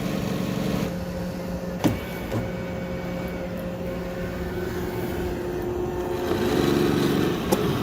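Roomba i7+ robot vacuum running, its motors giving a steady hum, with one sharp click about two seconds in and a swell in the motor sound near the end. The vacuum appears to be stuck.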